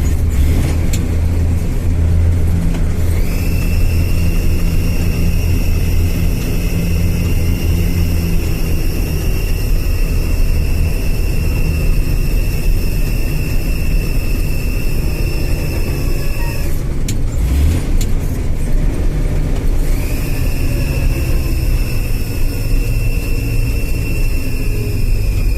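IFA L60 truck's diesel engine running while the truck drives in gear, with a steady high whine over the engine note. About two-thirds of the way through the whine drops out for roughly three seconds, with a few clicks and a change in engine speed, as a gear is shifted; then the whine returns.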